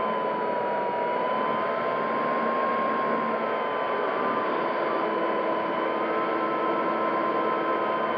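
Electric motor and propeller of an FMS P-40B Warhawk RC model plane in flight, heard from an on-board camera: a steady whine over wind rushing past the airframe, the pitch dipping slightly about a second in and then holding.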